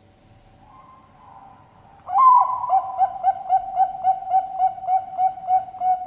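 Zebra dove (Bangkok-bred perkutut) cooing: a faint opening coo, then a loud note about two seconds in, followed by a quick even run of about a dozen short coos, roughly four a second.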